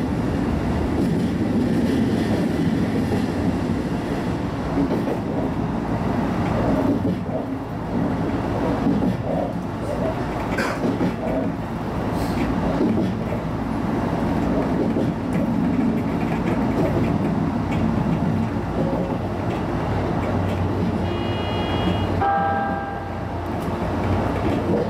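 A JR East HB-E210 hybrid diesel railcar running along the line, heard from the driver's cab: a steady rumble of wheels on rail with some clatter of the joints. A short run of beeping tones sounds near the end.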